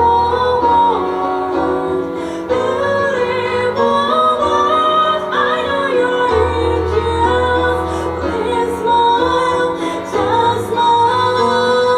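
Live music: a woman singing long, held notes over instrumental accompaniment with a steady bass.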